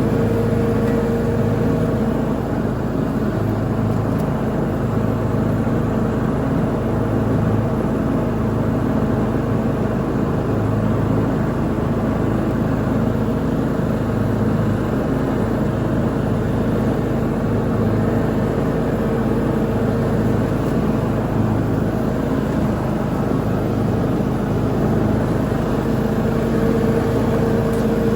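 Lawn mower engine running steadily under load while mowing, with an even drone and no change in speed.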